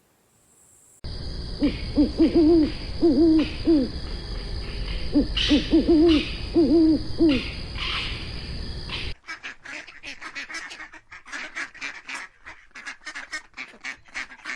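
A bird's low hooting calls in two runs of quick repeated hoots over a steady background hiss. About nine seconds in, the sound cuts to a rapid chatter of higher, clicking calls.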